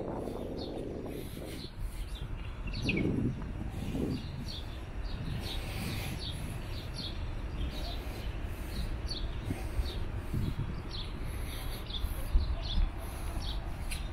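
Small birds chirping, repeated short high chirps about one or two a second, over a low steady rumble.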